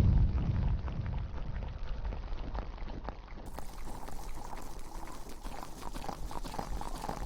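Close-miked wet crackling and squishing of shampoo lather being worked through hair, a dense patter of tiny pops; a louder low rumble fades out in the first second.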